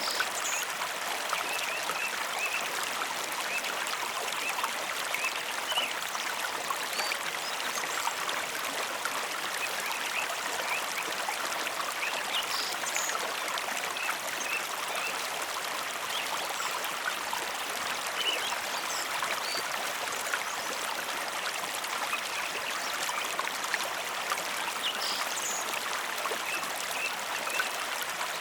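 Mountain river flowing: a steady rush of water with small trickling and splashing sounds scattered through it.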